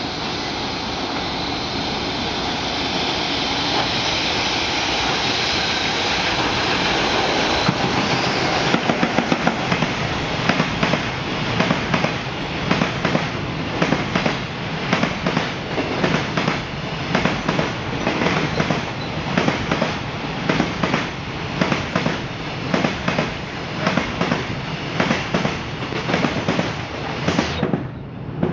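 Freight train with an EF66 electric locomotive and Koki container wagons passing close by: first a steady rolling noise, then, from about eight seconds in, the wagons' wheels knocking over rail joints in an even clickety-clack of sharp knocks about once a second.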